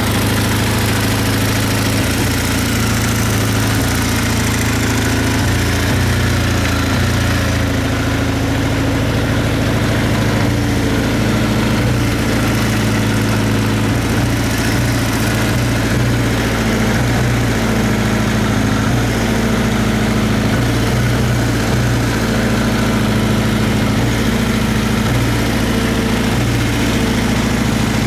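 Kawasaki Z750FX-III (KZ750E) inline-four engine idling steadily, at an even pitch with no revving.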